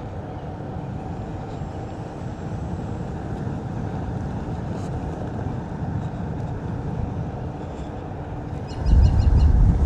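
Steady low rumble of wind and rolling noise on the camera microphone as a Onewheel electric board rides along, with a faint steady motor hum. Near the end a louder low buffet of wind lasts about a second.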